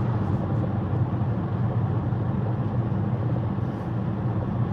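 Steady road and engine noise heard from inside a moving car, a low even hum.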